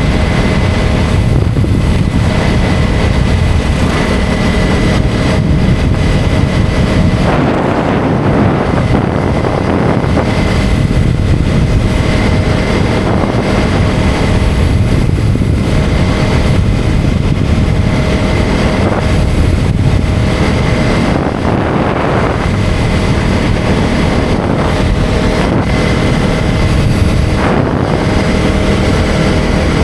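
KTM Duke 250 single-cylinder motorcycle engine running steadily while riding, with wind buffeting the microphone.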